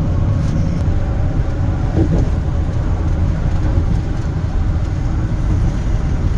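Steady road noise inside a moving camper van at highway speed: engine and tyre rumble, deep and even throughout.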